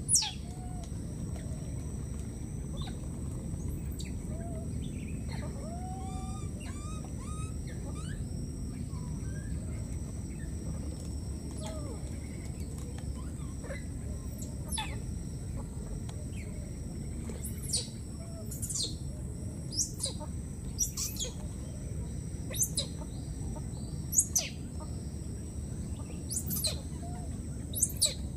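Outdoor ambience of birds chirping: short, sharp, high falling chirps, more frequent in the second half, with a few lower wavering calls early on. Under them runs a steady low rumble and a thin, steady high whine.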